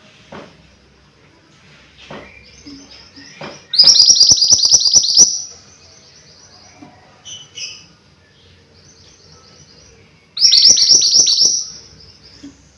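A mantenan gunung songbird singing: two loud, fast trills of rapidly repeated high notes, the first about four seconds in and the second near the end, with softer high notes between them.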